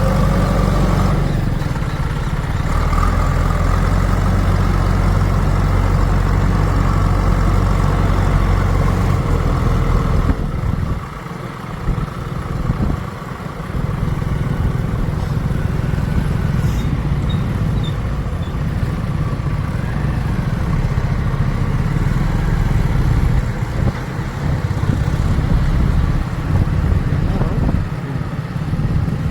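Heavy diesel machinery engine running steadily, with a high steady whine over the low rumble that stops about ten seconds in. The engine then eases off for a few seconds and picks up again.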